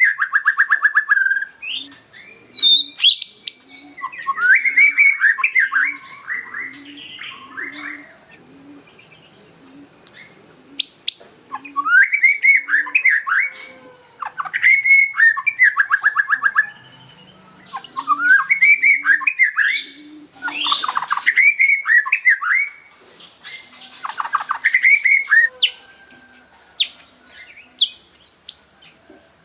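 Young white-rumped shama, just out of juvenile plumage, singing its plain basic song: phrases a second or two long of rising whistled notes ending in fast trills, repeated every few seconds with short pauses. A steady high thin tone runs underneath.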